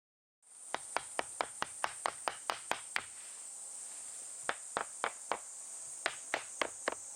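Insect calling: a steady high-pitched buzz with runs of sharp ticks about four a second, pausing twice.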